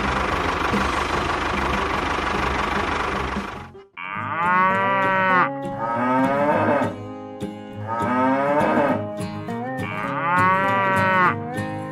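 A small engine running steadily with a low, rapid knock, cut off abruptly about four seconds in. After it come four drawn-out cow moos, each about a second and a half long, rising and falling in pitch.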